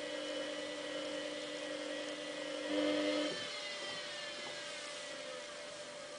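Samsung WF8804RPA washing machine's drum motor turning the drum for its automatic load detection: a steady motor whine that partly drops away about three seconds in and then winds down, falling in pitch.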